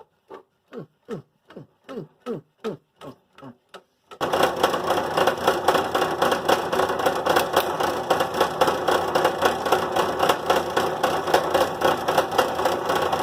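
A run of short squeaks, each falling in pitch, about three a second. About four seconds in, a drill press starts up and runs loud and steady, its Forstner bit boring into a plastic box.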